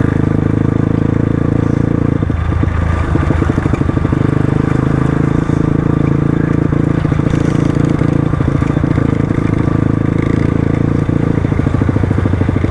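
Crossfire RM250 dirt bike engine running steadily while riding, with a brief dip in engine note about two seconds in.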